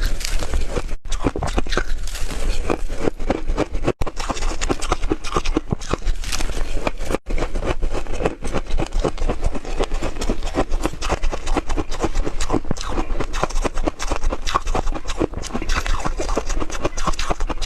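Hard refrozen ice being chewed close to the microphone: a dense, continuous run of crunches and cracks.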